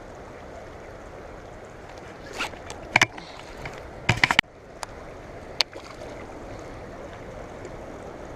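Steady rush of flowing river water, broken by a handful of short sharp splashes or knocks around the middle.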